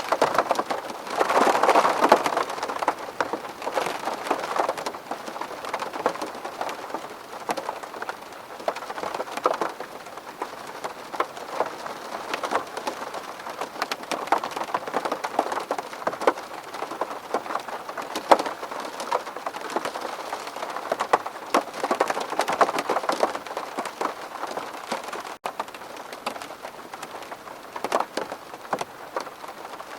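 Rain falling on a window pane: a steady patter with many individual drops ticking sharply against the glass. It swells briefly louder about a second in.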